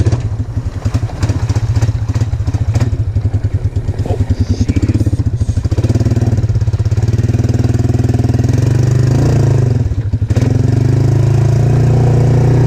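Yamaha Moto-4 225cc ATV's single-cylinder four-stroke engine running while riding. It pulses unevenly for the first half, then runs steadily, with a brief drop in throttle near the end.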